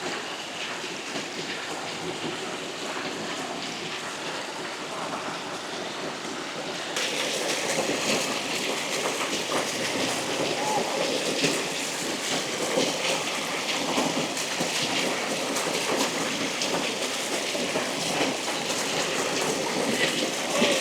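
Small waterfall splashing: a steady rush of falling water that gets louder and brighter about seven seconds in.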